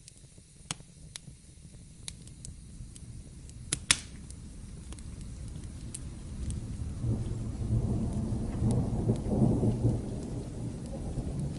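Wood fire crackling with a few sharp pops over a steady hiss of rain, then a low rumble of thunder that builds from about halfway through and rolls on, swelling near the end.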